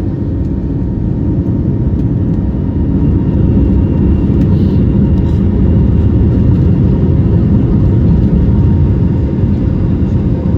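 Cabin noise inside an Airbus A321neo airliner: the steady low rumble of the engines and airflow, growing a little louder over the first few seconds and then holding.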